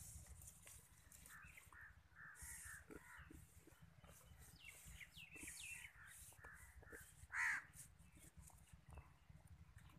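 Faint birds calling and chirping, short calls and quick falling chirps, with one louder call about seven and a half seconds in.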